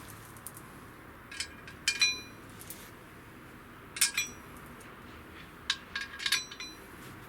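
Hard metal parts, the removed clutch components, clinking and knocking together as they are handled. The sharp clinks come in a few clusters, each with a short metallic ring.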